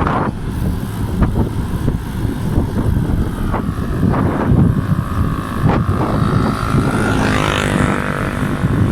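Wind buffeting the microphone of a moving bicycle, with a motor vehicle's engine drawing close and passing in the second half, its whine rising in pitch.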